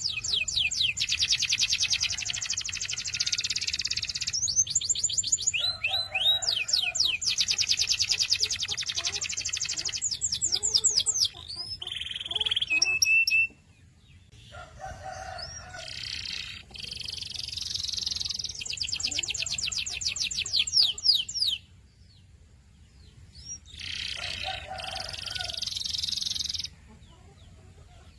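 Domestic canary singing: long, fast trills and rolls of rapidly repeated high notes, broken by three short pauses.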